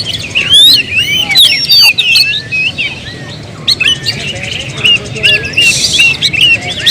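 Oriental magpie-robin (kacer) singing: a rapid, varied stream of whistles and chirps, with a short lull about three seconds in.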